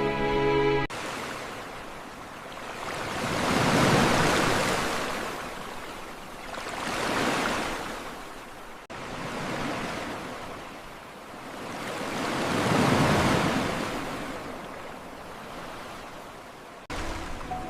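Ocean waves washing in, swelling and fading every three to four seconds. A held musical chord cuts off about a second in, and the wash breaks off abruptly twice later on.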